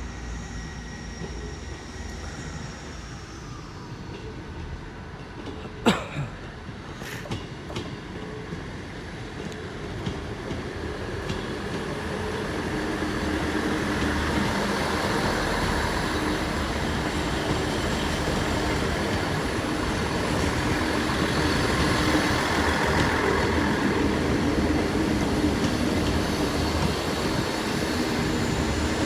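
A train moving through the station, its rumble and wheel noise growing louder from about twelve seconds in and then holding steady. A single sharp knock about six seconds in.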